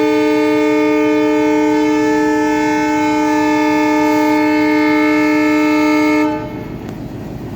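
Locomotive air horn sounding one long, steady blast of about six seconds that cuts off sharply, the departure signal of a train pulling out of a station. A lower rumble carries on after it.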